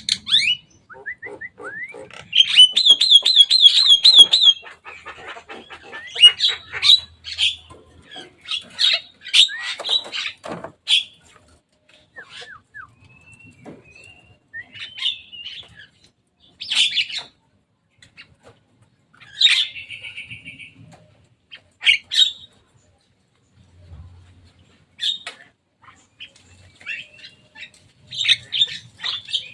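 Javan myna calling: a fast run of repeated harsh notes a few seconds in, then scattered squawks, chatters and short whistles with pauses between them.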